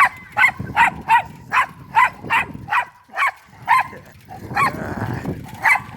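An agitated dog barking repeatedly at a person, with sharp, fairly high barks at about two a second.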